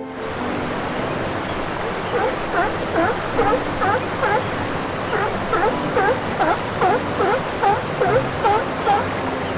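An animal calling over and over in short dipping chirps, about two to three a second, over a steady rushing noise.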